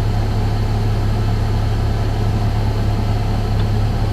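A vehicle engine idling steadily, heard from inside its cab as a constant low hum.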